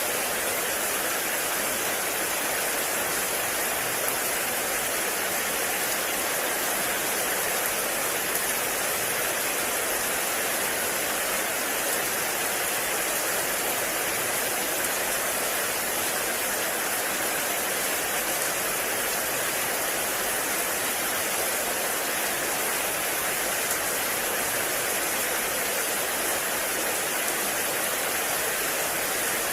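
Heavy rain falling in a forest, a steady, even rush of noise that does not let up.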